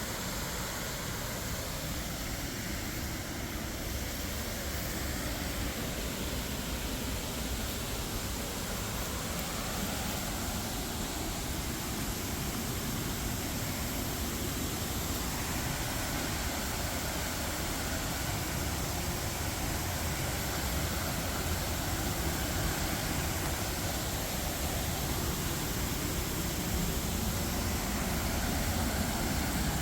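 Steady rush of a waterfall in high flow, a constant roar that grows slowly louder.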